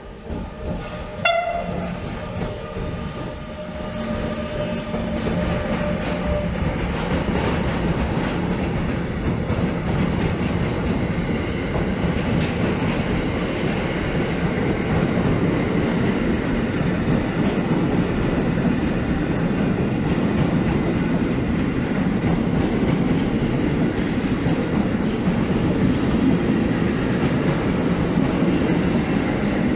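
An electric freight locomotive gives a short horn toot about a second in. Then a long container freight train rolls past close by, its wheels rumbling and clacking on the track, getting louder over the first few seconds and staying steady.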